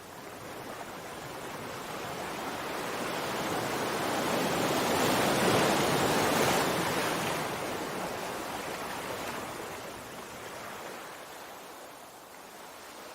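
Sea waves: a single wave swells in, growing louder to a peak about halfway through, then washes back out and fades.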